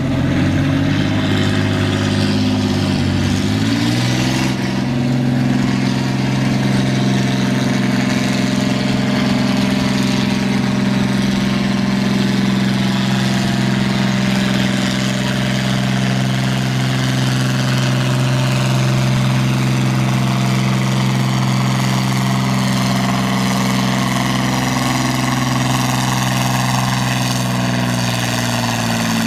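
Naturally aspirated pulling tractor's engine running loud and steady. Its pitch climbs over the first few seconds, holds at constant revs, then dips slightly near the end.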